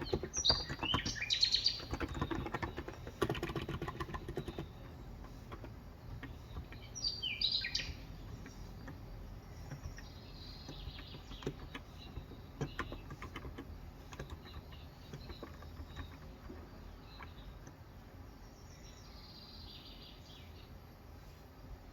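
Typing on a Cox Endeavour electrostatic capacitive (Topre-style) keyboard with 35 g switches: a quick run of keystrokes for the first four seconds or so, then only the odd key tap. Small birds chirp in short calls several times, around the start, near eight seconds, near eleven and near the end.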